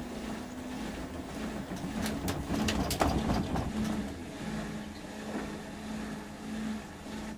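LG Turbowash 360 AI DD front-loading washing machine in its final spin at 400 rpm: the direct-drive motor turns the drum with a steady hum and a held tone. A short cluster of clicks and knocks comes about two to three seconds in.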